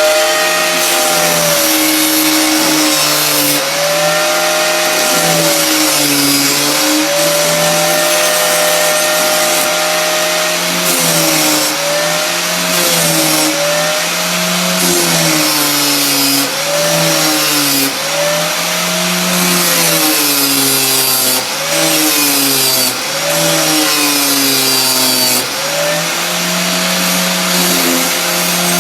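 Electric grinder running, its motor hum sagging in pitch and recovering each time the steel hook-tool blank is pressed into it, with a grinding hiss over the top. The dips come a few seconds apart at first, then more often.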